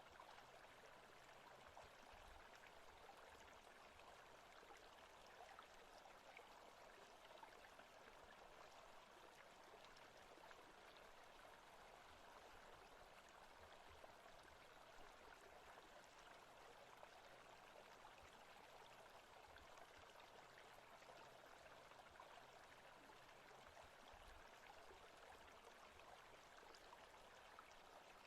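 Faint, steady forest ambience of running stream water.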